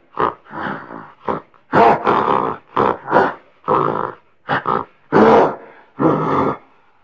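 Gorilla calling in a series of about a dozen short, pitched calls with brief pauses between them.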